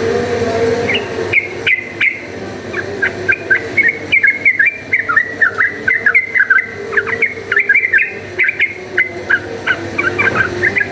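Sooty-headed bulbul singing a fast, chattering run of short whistled notes, starting about a second in and densest in the middle. It is the lively fighting-style song that bird keepers play to provoke other bulbuls into singing.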